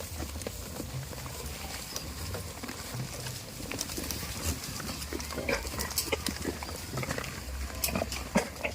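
Goats making short grunting calls amid scattered clicks and knocks of animals moving about, over a low steady hum; the calls come more often in the second half.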